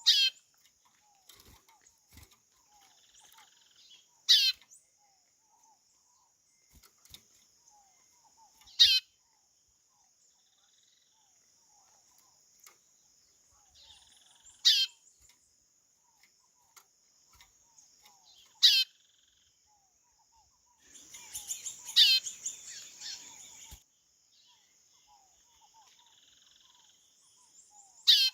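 White-bellied seedeater (chorão) calling: a loud, short whistle that falls steeply in pitch, repeated about every four to five seconds, with a longer, busier phrase about three quarters of the way through. A steady high insect drone and faint low chirps run underneath.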